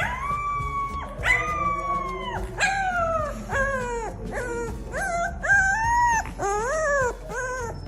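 A dog howling and whining in a run of drawn-out, sliding cries, the first few long and falling in pitch, then shorter and quicker ones from about halfway on.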